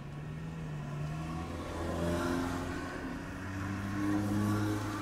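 Cars pulling away across a railroad crossing, engines rising in pitch as they accelerate; the sound swells twice, about two and about four seconds in.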